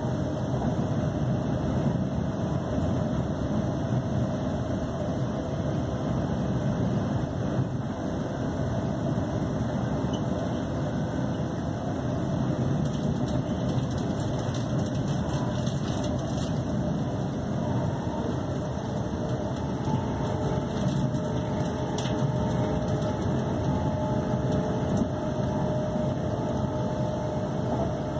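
Steady running noise inside a Class 350 Desiro electric multiple unit travelling at speed, the rumble of the train on the track holding an even level throughout.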